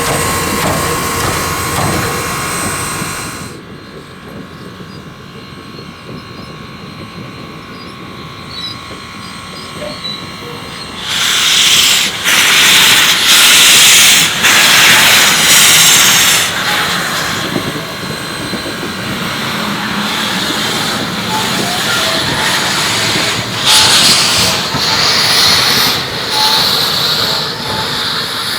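Chesapeake & Ohio 1309, a 2-6-6-2 Mallet steam locomotive, hissing steam. After a quieter stretch, loud blasts of hiss start about eleven seconds in and come unevenly, loudest soon after they begin. Several steady tones sound at the start.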